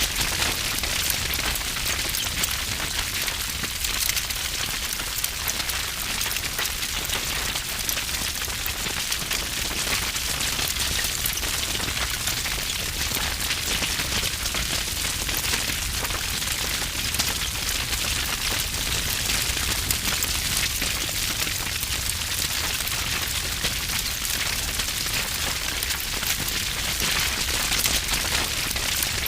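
Wood fire burning with heavy, dense crackling: many small pops and snaps over a steady hiss, with a low rumble underneath.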